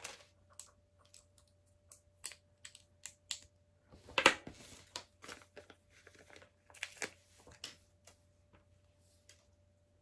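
Small plastic LEGO bricks clicking and clattering as they are handled on a table, in many short irregular taps, with louder rattling clatters about four seconds and seven seconds in.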